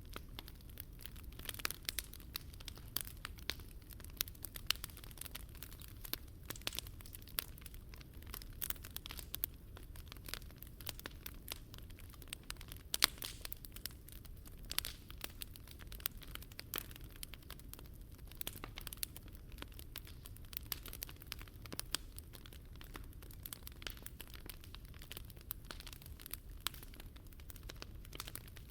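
Wood campfire crackling and popping: a steady run of irregular sharp cracks, with one louder pop about 13 seconds in.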